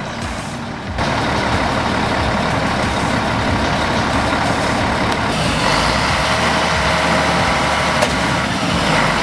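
Heavy truck or heavy-equipment engine running loudly, jumping up in level about a second in and then holding steady.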